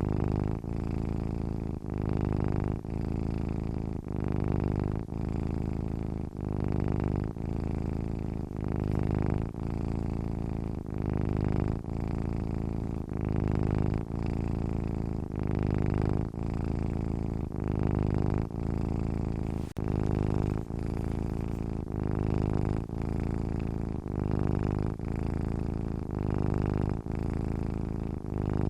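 Domestic cat purring steadily while asleep: a low, even rumble that swells and dips about once a second with each breath in and out.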